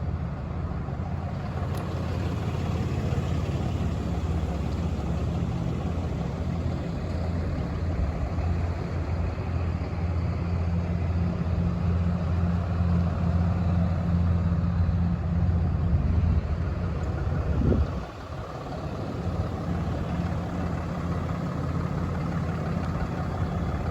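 Cummins 6.7-litre inline-six turbo-diesel in a Ram 5500HD running steadily with a low, even diesel drone. It dips suddenly about three-quarters of the way through, then settles again.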